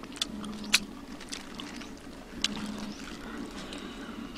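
Scattered sharp, wet clicks of someone chewing with the mouth, over a low steady hum.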